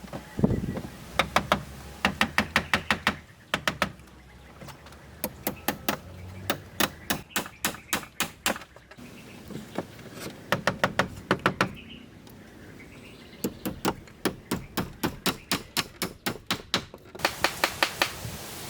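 Rapid, evenly spaced strikes of a hand tool on wood, about four a second, in several runs of one to four seconds each with short pauses between.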